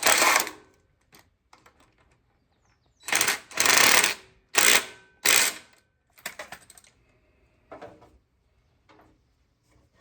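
Metal clicks and scraping from hand tools working a nut onto a bolt on the tiller's engine mount. There are a few loud scrapes from about three to five seconds in, then lighter clicks.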